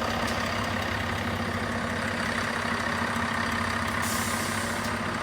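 Diesel bus engine idling steadily, with a short burst of hissing air about four seconds in.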